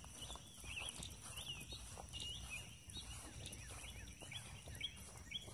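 Birds chirping in the trees: a string of short, high chirps, fairly faint, with soft footsteps underneath.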